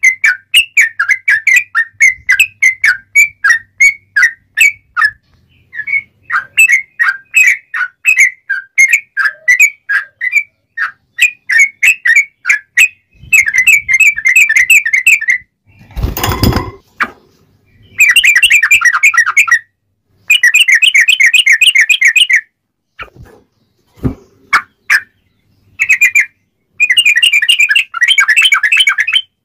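Yellow-vented bulbul (trucuk) singing energetically. It gives runs of short, bright, repeated notes that give way to fast trilled phrases, with a loud brief thump about halfway through.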